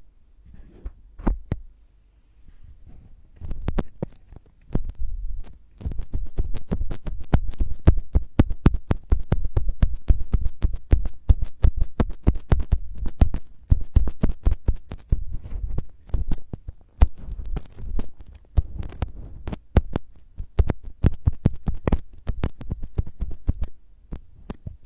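ASMR trigger sounds made close on the microphone: quick taps and scratches with low thuds, sparse at first and then a dense, fast run from about six seconds in.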